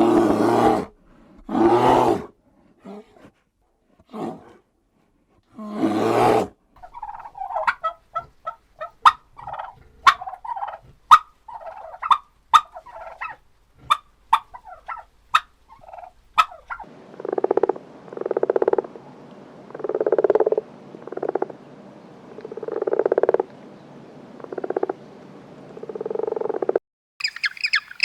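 A run of different animal calls in turn: a few loud calls in the first six seconds, then many short, sharp notes in quick succession for about ten seconds, then about eight deeper calls evenly spaced a little over a second apart.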